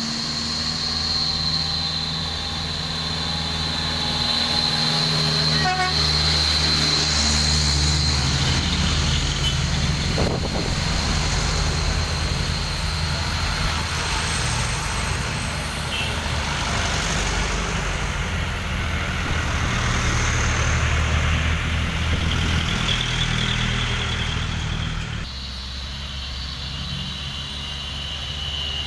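Heavy trucks' engines running as a line of trucks passes one after another, the engine drone swelling and fading. The sound changes abruptly about 25 seconds in.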